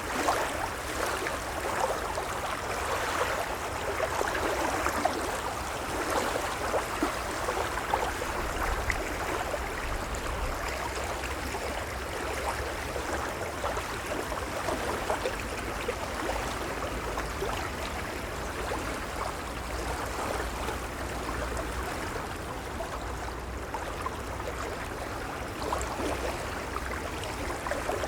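Gentle waves lapping and washing ashore: a continuous wash of water with many small splashes, swelling a little now and then, over a low rumble.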